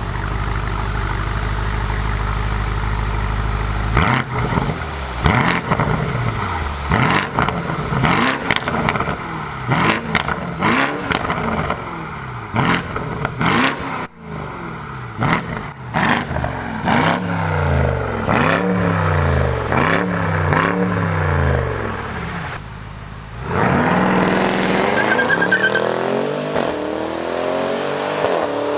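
BMW M550i xDrive's twin-turbo V8 through an aftermarket Remus exhaust, idling and then blipped through a long run of short revs, each falling back with sharp crackles and pops. Near the end it pulls away under steady acceleration, its pitch climbing.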